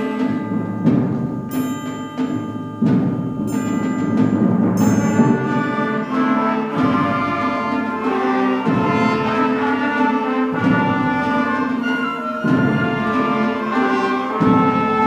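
A school concert band playing a stately piece with a three-four feel, sustained wind chords over low accented notes. There are several sharp percussion strikes in the first few seconds.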